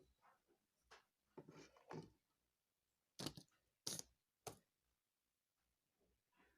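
Faint handling noises of small objects on a work surface: soft scraping in the first couple of seconds, then three sharp clicks a little past the middle, about half a second apart.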